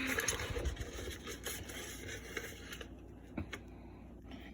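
Scraping and handling noises that fade after about three seconds, leaving a couple of faint clicks.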